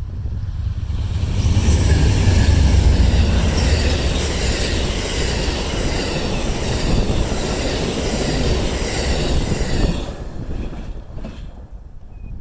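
Amtrak Southwest Chief passenger train passing close by, its wheels running on the rails with a steady rumble and high rail noise. The noise builds over the first couple of seconds and drops away about ten seconds in as the train clears. Wind buffets the microphone underneath.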